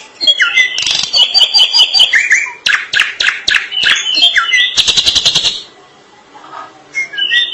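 Drongo singing vigorously: a loud, varied run of whistles and chirps broken by rapid trains of sharp repeated notes. It stops about six seconds in, and a whistled phrase starts again near the end.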